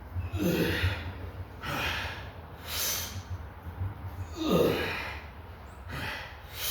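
A man breathing hard through a set of exercise: sharp, forceful breaths about once a second or so, two of them with a low grunt, over a steady low hum.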